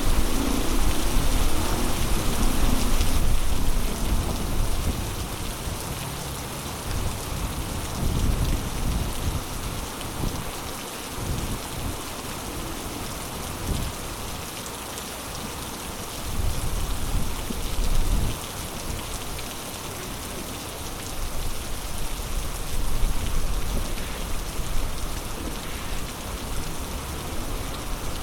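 Heavy rain pouring steadily, a dense even hiss. Under it a low rumble is loudest for the first few seconds, eases off, and swells again a few times.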